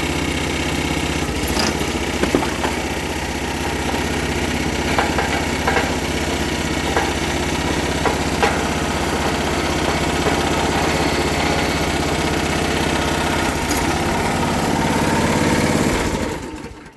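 Briggs and Stratton Quantum Edge 6.5 HP single-cylinder four-stroke engine on a log splitter running steadily, back in running order after its gummed-up carburetor was cleaned. It stops shortly before the end.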